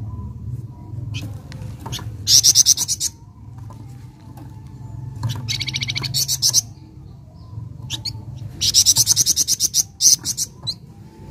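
Scarlet minivet (flamboyan) singing loud, high, rapid trills in four bursts, each less than a second to about a second long, over a steady low hum.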